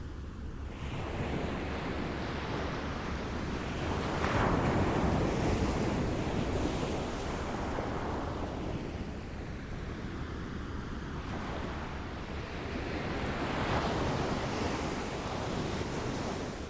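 Small waves lapping and washing on a shore, swelling twice, about four seconds in and again near the end, with some wind noise on the microphone.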